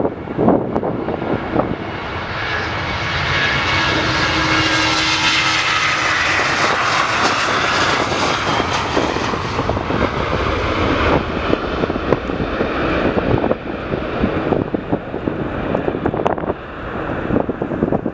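A departing jet airliner's engines build to a loud, broad rush that peaks about halfway through and then fades. Wind buffets the microphone at the start and again near the end.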